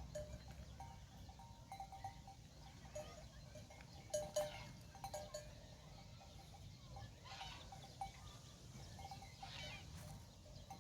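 Livestock bells clanking irregularly as a grazing flock moves, with occasional animal calls from sheep or goats.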